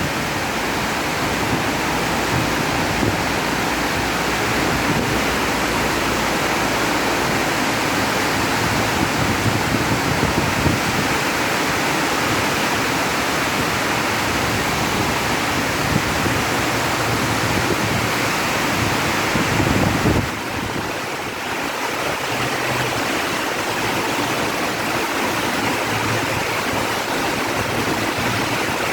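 Heavy rain pouring down in a steady, dense hiss, easing slightly about twenty seconds in.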